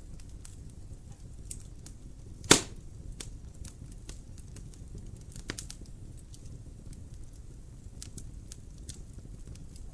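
Wood fire burning in a fireplace: a steady low rumble with scattered small crackles, and one loud sharp pop about two and a half seconds in, with a smaller pop near the middle.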